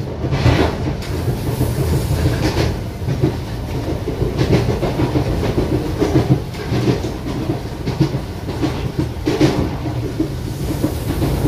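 Passenger train coach running along the track, heard on board: a steady rumble with repeated wheel clicks and knocks over the rail joints.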